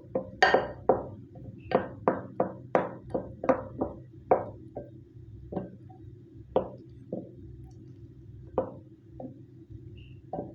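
A spoon knocking and scraping against a bowl as a thick milk-powder peda mixture is stirred. The knocks come quickly, about two a second at first, and thin out over the second half.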